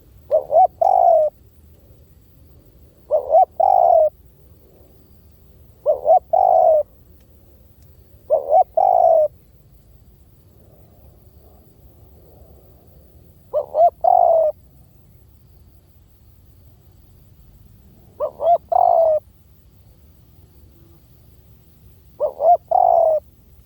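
Spotted dove cooing, a decoy call for luring doves. It gives seven phrases, each two short coos followed by a longer one, every few seconds with a couple of longer pauses.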